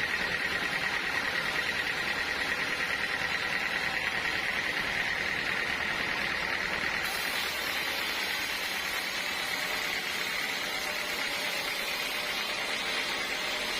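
Sawmill saw running steadily, a continuous high whine over a hiss that fades slightly about halfway through.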